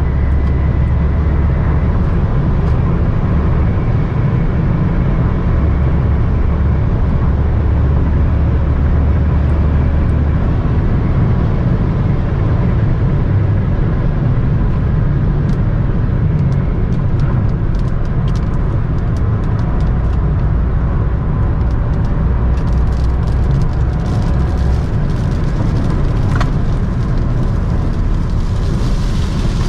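Steady low drone of road, wind and engine noise inside a Toyota Camry 3.5Q with a 3.5-litre V6, driving fast on a highway. From about two-thirds of the way in, scattered sharp ticks join it: the first raindrops of a storm hitting the car.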